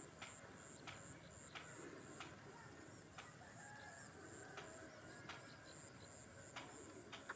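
Faint outdoor ambience: a distant bird calling around the middle, over a steady high drone, with scattered light clicks.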